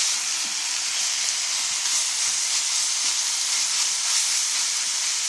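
Chicken pieces and red curry paste sizzling steadily in a hot oiled wok as they are stir-fried, the paste and meat frying together.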